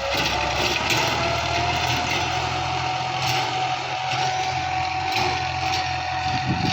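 Massey Ferguson 260 tractor's diesel engine running steadily with mechanical clatter and clicks. A whine rises slightly in pitch over the first two seconds, then holds steady.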